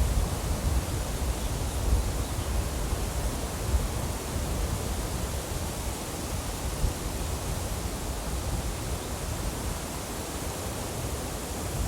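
Steady rushing nature ambience, an even hiss over a low rumble that rises and falls a little, with no bird calls or other distinct events.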